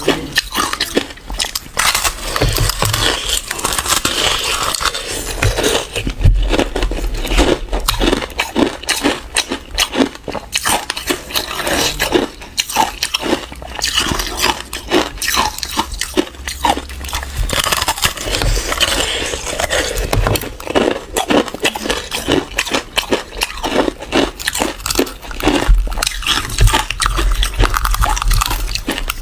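A person biting and chewing crunchy ice close to the microphone: a dense, irregular run of crunches and crackles.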